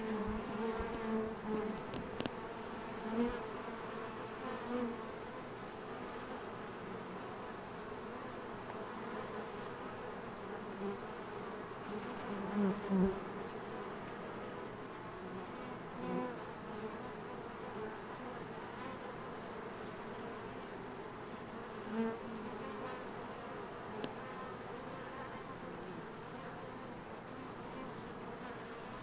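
Swarm of honey bees buzzing steadily around a hive box as they settle into it. Single bees fly close past several times, swelling the buzz briefly.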